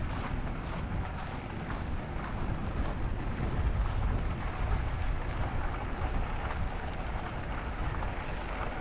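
Wind buffeting the microphone while riding an e-bike: a steady, uneven low rumble that swells and eases.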